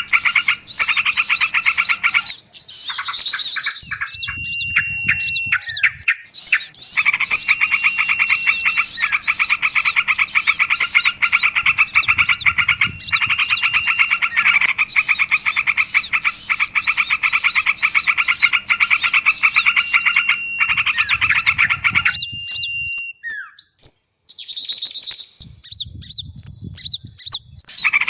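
Dense, rapid chirping and trilling of several small songbirds layered together, from a bird-luring (pikat) recording made to draw small birds in. The calls stop abruptly several times and then resume.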